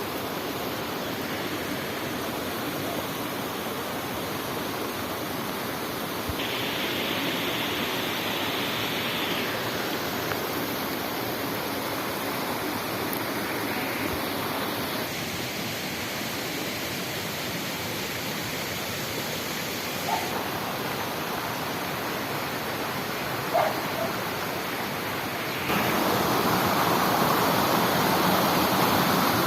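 Rushing water of a spring-fed waterfall, a steady hiss that shifts in level abruptly a few times and grows louder near the end. Two brief sharp sounds stand out over it in the later part.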